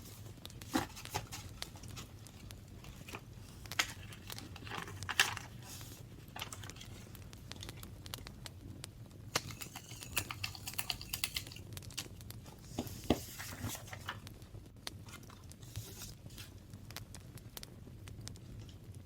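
Paper and craft materials being handled for journaling: rustling and crinkling paper with scattered light taps and clicks, and a short stretch of crinkly rustle about halfway through.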